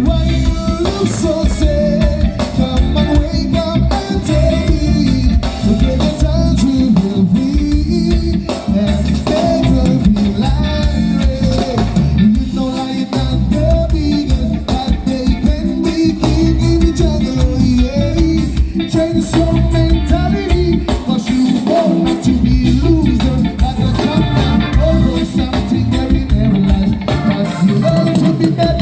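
Live reggae band playing with a steady bass line and a sung vocal melody.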